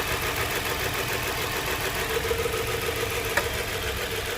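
Nissan car engine idling steadily, with a faint click near the end.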